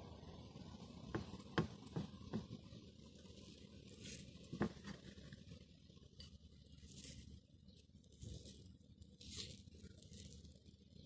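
Faint, scattered workshop handling sounds: a few light taps and knocks in quick succession, then short scraping or rubbing strokes.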